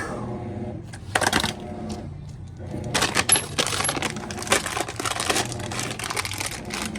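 Metal tools and small metal parts clinking and clattering during washer gear-case work: a sharp clatter about a second in, then a quick run of light metallic clicks from about three seconds on, over a steady low hum.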